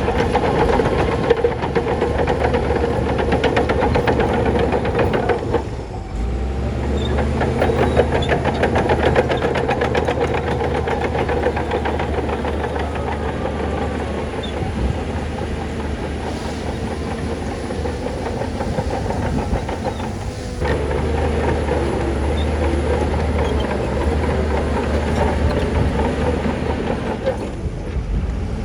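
Crawler bulldozer working: its diesel engine runs steadily under the rapid clanking and rattling of its steel tracks. The sound dips briefly twice.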